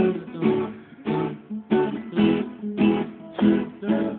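Acoustic guitar strummed in a steady rhythm, about two chord strokes a second, with no singing.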